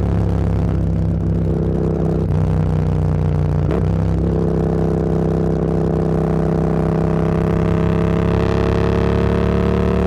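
Motorcycle engine running under way, with a short break just under four seconds in, then the engine note climbing slowly as the bike gathers speed.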